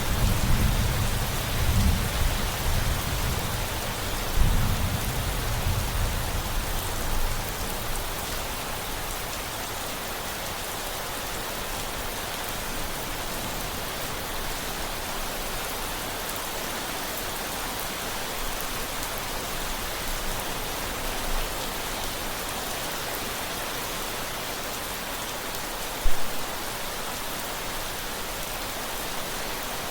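Steady rain pattering, with a low rumble of thunder in the first several seconds that dies away. A short low thump comes near the end.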